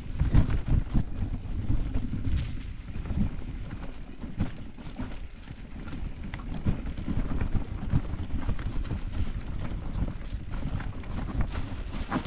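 Mountain bike rolling over a rough trail: a steady low rumble with frequent knocks and rattles, and wind on the microphone.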